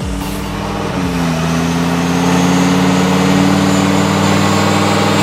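Lamborghini Huracán LP610-4's V10 engine with an Innotech performance exhaust running under load on a dyno: after a brief dip about a second in, its pitch climbs slowly and it grows louder as the revs build through a pull.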